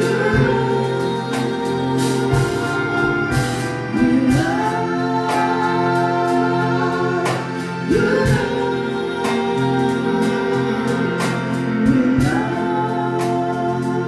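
Gospel worship music: held keyboard chords under singing voices that glide up into long held notes, with steady percussion hits.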